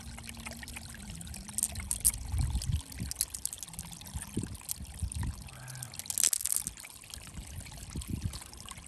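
Water pouring and trickling, with scattered small knocks and a short splashy hiss about six seconds in.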